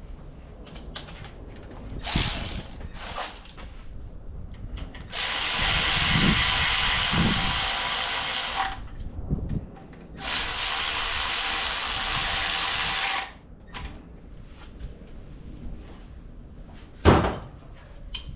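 A power tool driving bolts during engine reassembly, run in two steady spells of about three seconds each after a couple of short spurts, with a sharp click near the end.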